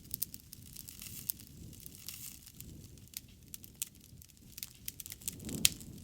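Wood campfire crackling: scattered sharp pops and snaps over a low rumble of burning, with a louder pop near the end.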